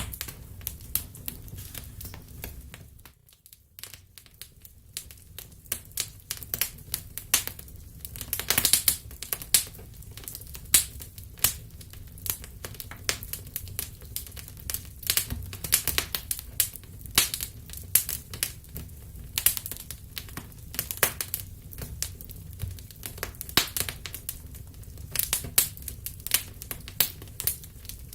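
Wood fire crackling in a fireplace: irregular sharp pops and snaps over a low, steady rumble of the flames, with a brief lull about three seconds in.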